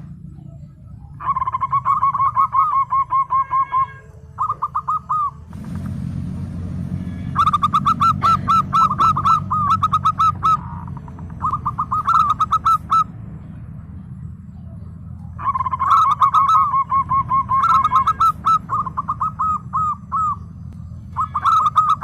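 Zebra dove (perkutut) calling in repeated bursts of rapid staccato cooing notes, several phrases with short pauses between them, over a steady low hum. A brief hiss sounds about six seconds in.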